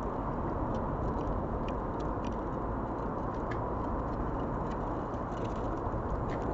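Steady low rumbling outdoor background noise with faint, scattered light ticks.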